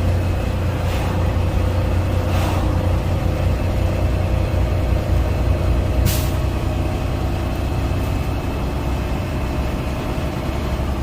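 Freightliner Cascadia semi-truck's engine running with a steady low hum, heard from inside the cab while driving at low speed. A few brief hisses come through, the clearest about six seconds in.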